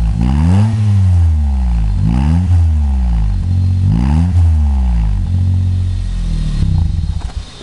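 Daihatsu Move's 660 cc three-cylinder engine, heard through a Kakimoto GT box 06&S aftermarket exhaust muffler, blipped three times in quick revs that rise and fall about every two seconds. It then drops back to idle for the last couple of seconds.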